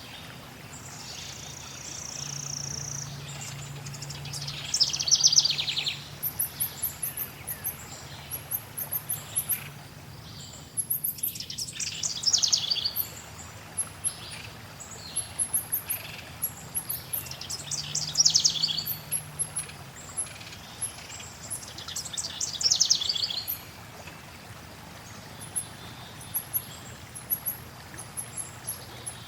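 Forest songbirds singing: a fast trilled song phrase comes back every five or six seconds, while very high, thin chirps repeat rapidly from about six seconds in. A steady background hiss lies underneath.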